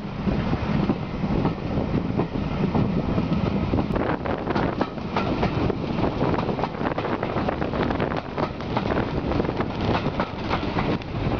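Steam-hauled passenger train running, heard from an open carriage window: a steady rumble and rush with the rapid clatter of wheels on the rails, the clicks more distinct from about four seconds in.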